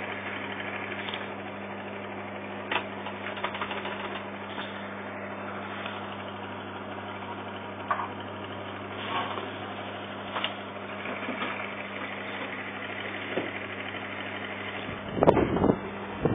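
Microwave oven running with a light bulb inside: a steady mains hum with a few short sharp clicks. A louder clatter comes about fifteen seconds in.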